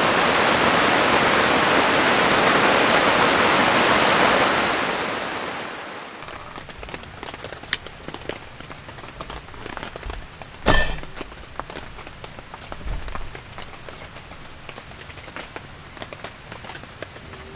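Heavy rain falling on the tent, a steady loud hiss that fades away about five seconds in. In the quiet that follows, a sharp click and then a louder snap a few seconds later, from a long-nosed lighter being clicked.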